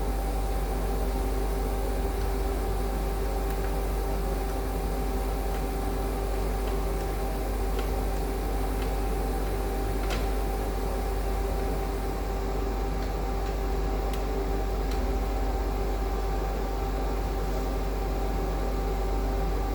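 A steady machine hum with a constant mid-pitched tone over a low rumble, with a few faint clicks.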